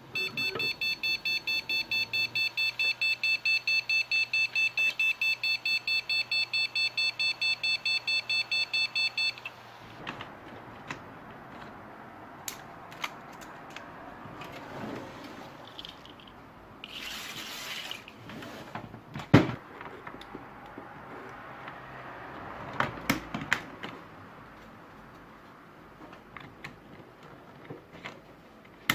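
Motherboard beeper giving a rapid string of short, high-pitched beeps, several a second, for about nine seconds and then stopping. This is the BIOS POST beep code for a memory error, here RAM making poor contact in its slot. After it come scattered clicks and knocks, with a short hiss midway.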